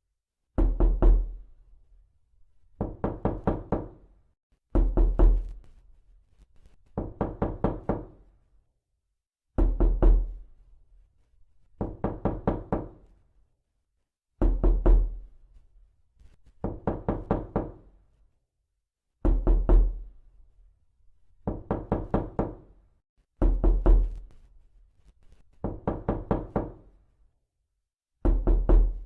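Repeated knocking: quick runs of four to six sharp knocks, each run about a second long, repeating roughly every two to two and a half seconds, some with a heavier low thud.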